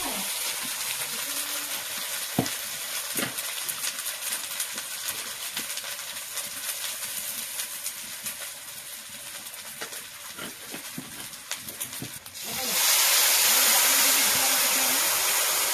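Masala sizzling in hot oil in an iron kadai, with a metal spatula scraping and clicking against the pan as it is stirred. About twelve seconds in, something wet goes into the pan and a much louder steady hiss of steam starts up.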